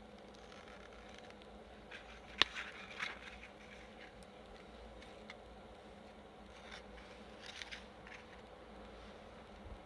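Saury grilling on an iron plate over a campfire: faint crackles and spatters over a low steady hum, with one sharp crack about two and a half seconds in.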